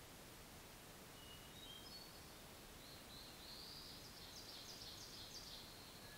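Faint songbird singing: a few short, high, separate notes, then a longer run of quick rising and falling notes from about three seconds in, over a steady hiss.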